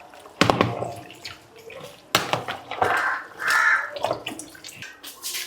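Kitchen utensils knocking and clinking as food is mixed and handled, with two short harsh calls, like a bird's, about three seconds in.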